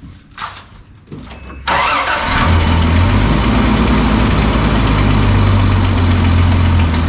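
Toyota FJ60 Land Cruiser's 2F inline-six gasoline engine cranked by its starter about a second and a half in, catching almost at once and settling into a steady idle. This is its start-up after a tune-up with new plugs, wires, rotor, belts and an exhaust manifold gasket.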